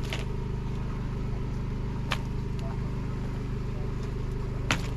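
Steady low mechanical hum of a running motor or engine, with three short sharp clicks or clinks spread through it.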